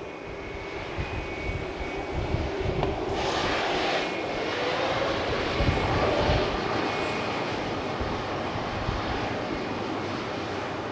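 Jet airliner's engines at takeoff power: a steady noise with a thin high whine, growing louder about three seconds in and staying loud.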